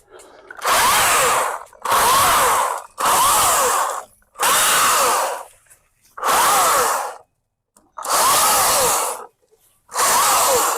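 Stihl MSA 220 battery chainsaw run in short trigger bursts, about seven in a row, each lasting about a second, its electric motor whine rising as it spins up and falling as it winds down between bursts.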